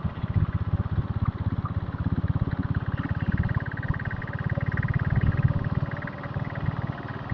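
Diesel Bullet motorcycle's single-cylinder diesel engine running under way, a steady run of quick, even exhaust beats.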